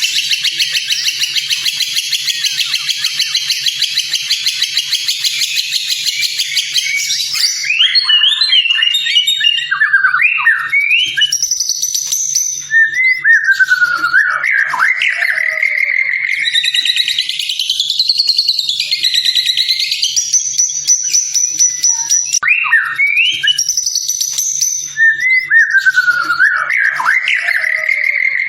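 White-rumped shama (murai batu) singing a song full of mimicked phrases: a long, fast buzzy trill for about the first seven seconds, then a run of varied, loud whistled phrases sliding up and down in pitch.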